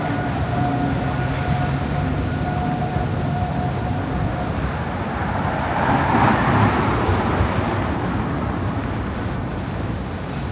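Urban traffic noise with a steady hum, and a vehicle swelling up as it passes about six seconds in.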